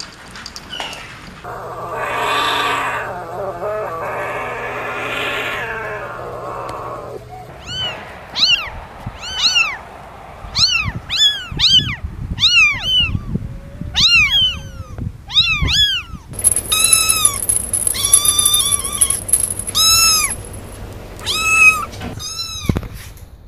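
Kittens mewing: many short, high-pitched mews that rise and fall, a few each second, from about eight seconds in. Before them, a longer, hoarser sound in two swells.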